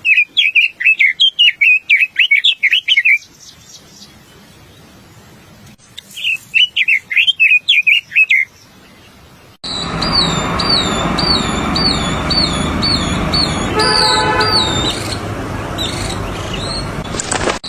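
A small songbird singing a rapid twittering phrase of quick notes, twice, a few seconds apart. About ten seconds in, the sound switches to another bird repeating a clear slurred whistle about twice a second over a steady background hiss and hum.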